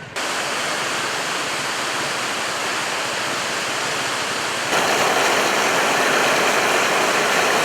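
Floodwater rushing past in a steady, loud torrent; it steps up louder about five seconds in.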